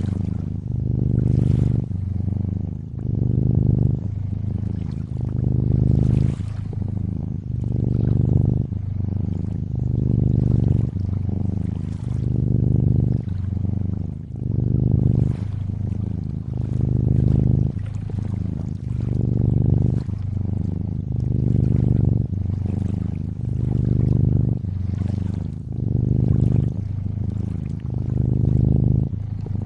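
Cat purring steadily, swelling and easing about every two seconds with each breath in and out, over gentle trickling lakeside water.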